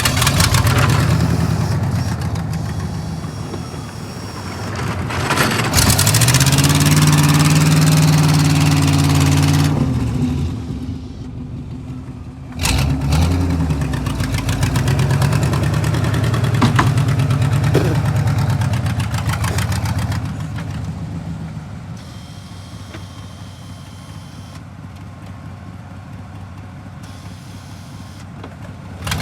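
A vehicle engine revving hard in two long stretches, its pitch rising and falling, then settling to a quieter steady run for the last third.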